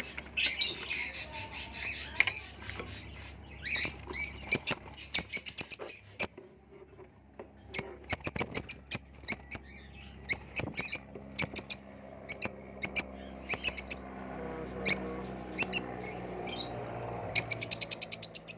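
Small cage birds chirping in short, high calls, some in quick runs, with a fast burst of chirps near the end.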